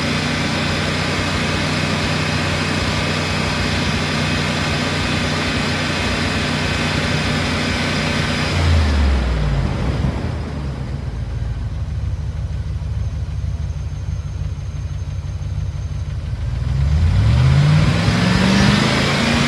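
P38 Range Rover engine held at raised revs, dropping back to a lower idle about nine seconds in, then revving up again near the end. It runs a little rough, being treated with Rislone for a sticking valve or lifter.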